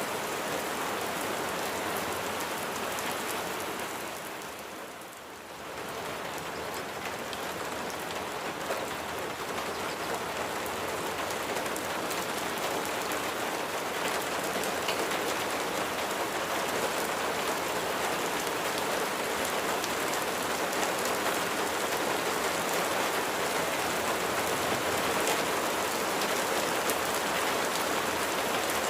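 Steady rain falling, a dense patter of drops. It fades down briefly about five seconds in, then comes back.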